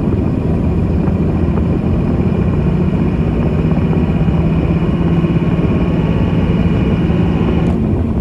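5.9-litre Cummins turbo-diesel inline-six of a 1999 Dodge Ram 3500 pulling under load in a low gear, heard from inside the cab as a loud, steady engine drone that grows stronger a few seconds in. Near the end the note breaks off as the driver lets off for the shift into third. The truck has a slight hesitation on fuel, which the seller puts down to the fuel pump and injectors.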